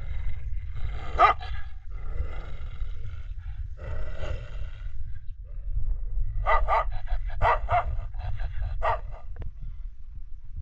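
A dog barking: one bark about a second in, then a run of quick barks from about six to nine seconds in, over a steady low rumble.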